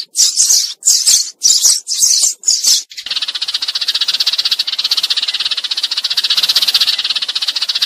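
Sparrows calling: a quick series of high chirps, about three a second, then from about three seconds in a long, fast chattering rattle, the flock-calling chatter used as a decoy to lure sparrows.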